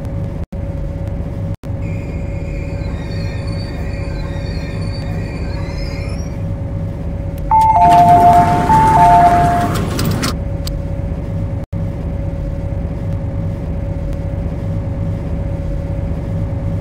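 MTR C-Train standing at a station platform with its equipment running: a steady electrical hum with a constant tone. About eight seconds in, a short two-tone alternating chime sounds over a burst of louder rushing noise.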